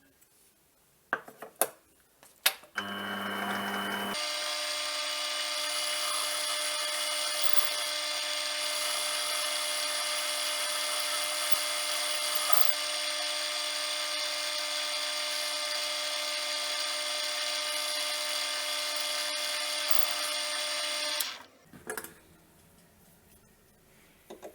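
Small metal lathe started after a few clicks. It runs briefly at a low pitch, then steps up to a steady high-pitched whine for about seventeen seconds before being switched off, with a couple of knocks after it stops.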